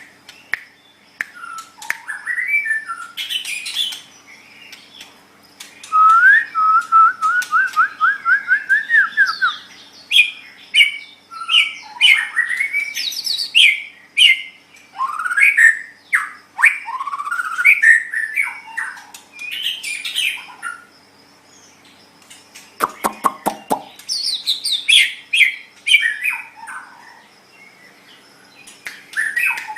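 White-rumped shama (murai batu) singing a varied series of loud whistled phrases that slide up and down, with a run of quick repeated notes about six seconds in and a burst of rapid clicks around twenty-three seconds. A faint steady hum lies underneath.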